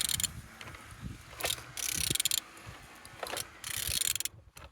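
Ratchet wrench clicking in three strokes as the crankshaft of a Z18XER 1.8-litre four-cylinder petrol engine is turned over by hand; the engine turns freely.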